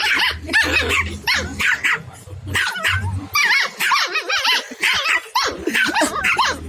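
A kampung (Indonesian village) puppy and a small dog yapping and yipping back and forth at each other. The short, high calls come in quick succession and often overlap.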